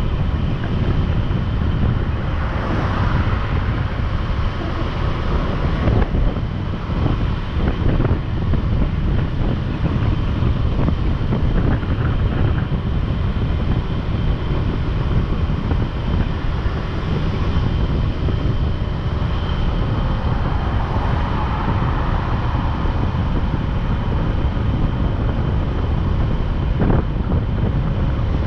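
Wind rushing over the microphone of a moving motorcycle, a loud steady low rumble with the engine running faintly underneath. A few brief knocks come through along the way.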